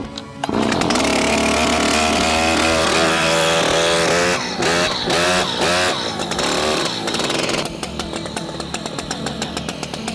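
Stihl MS 881 two-stroke chainsaw catching about half a second in and running at high revs. It is then blipped up and down several times and drops to a lower, evenly pulsing idle for the last couple of seconds.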